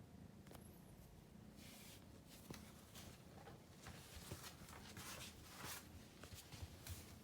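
Faint, intermittent rustling, scratching and soft taps that start about one and a half seconds in: a kitten's paws and body moving over the floor as it plays.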